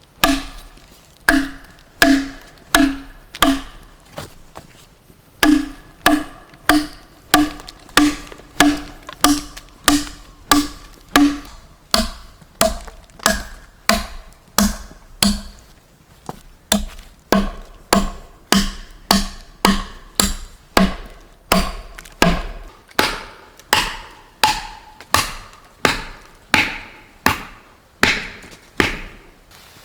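Steady chopping on wood, about one and a half strokes a second. Each stroke is a sharp knock with a short ringing tone, and the tone drops a little in pitch about halfway through.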